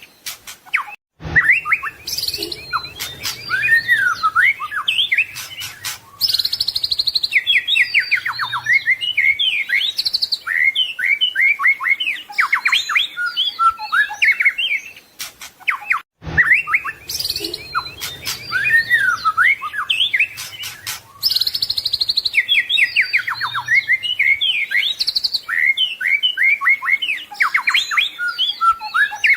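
White-rumped shama (murai batu) singing a fast, varied song of whistles, trills and quick pitch glides. The recording is looped: after a brief break about a second in, the same stretch of song starts over about 15 seconds later.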